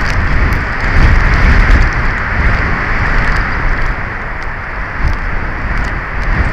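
Strong wind blowing over the nest camera's microphone: a loud, continuous rush with a low buffeting rumble that swells and eases, and faint scattered ticks on top.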